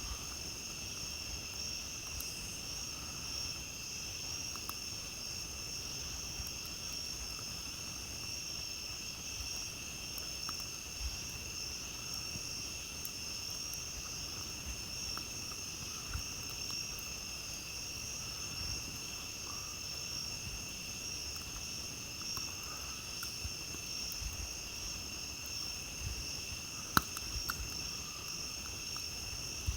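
Steady, continuous chorus of night-singing insects in several high-pitched layers. A few faint pops of a campfire crackle through it, with one sharper pop near the end.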